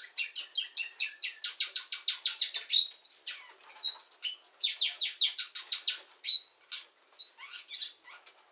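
Canary singing a nightingale-style song: fast trills of short, high, repeated notes, about eight a second, broken by brief pauses and looser phrases. The song dies away near the end.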